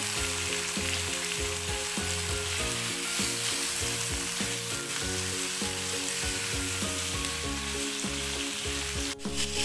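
Parboiled goat liver pieces sizzling in hot oil and spice paste in a wok, stirred and scraped with a wooden spatula. The sizzle drops out briefly near the end.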